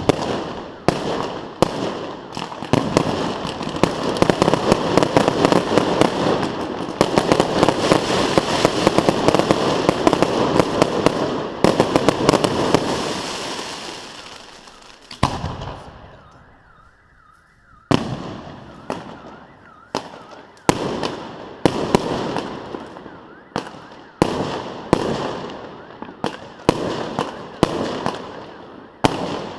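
Fireworks display: a dense barrage of bangs and crackling that fades out about halfway, a short lull with a faint wavering tone, then a steady run of separate shell bursts, about one or two a second.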